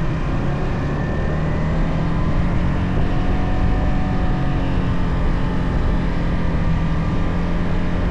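Yamaha XSR 155's single-cylinder engine running steadily through its stock exhaust while the motorcycle is ridden, with wind and road rumble.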